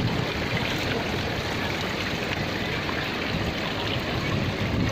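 Small waterfall of stream water pouring and trickling into the sea, a steady rush of running water.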